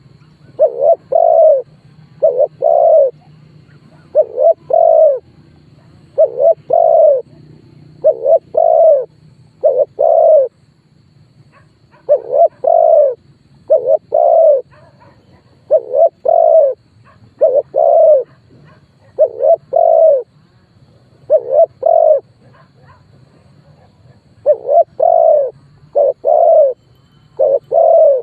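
Male spotted dove cooing: short groups of two or three low coos repeated over and over, with a brief pause about eleven seconds in. This is the decoy call used to lure wild spotted doves into a fight.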